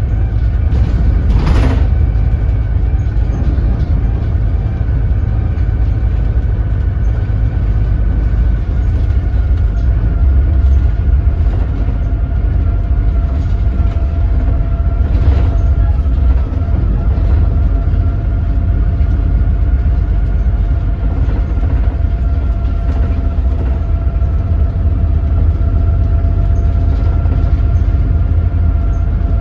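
Doosan DL08K diesel engine of a BS106 city bus running at low speed and low rpm: a steady heavy rumble with a faint whine over it, broken by a short hiss about a second and a half in and again about halfway through.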